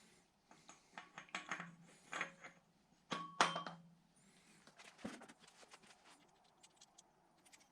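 Light metallic clicks and clinks of a fan hub and its nuts being handled and fitted to the front of an engine: a run of small taps, a louder ringing clink about three seconds in, then a single knock and faint ticking.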